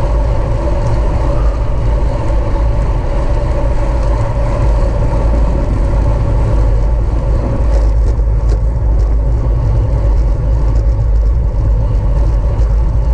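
Steady rush of wind over the microphone of a racing bicycle moving at speed, with a few light clicks about two-thirds of the way through.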